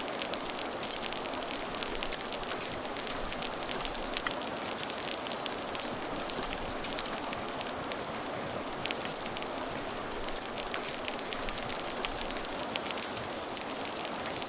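Steady rain mixed with a crackling fire, with frequent small, irregular pops and snaps over the even hiss of the rain.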